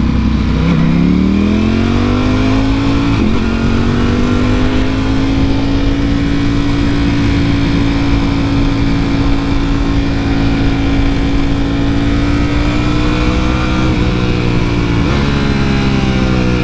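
Motorcycle V4 engine under way: it revs up over the first couple of seconds, holds a steady speed with a constant rush of wind, and eases off near the end.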